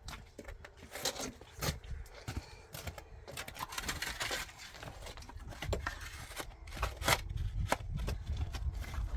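Irregular clicks, knocks and scraping over a low rumble.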